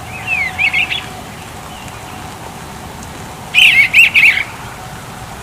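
A songbird twittering in two short bursts of quick warbling notes, one at the start and one about three and a half seconds in.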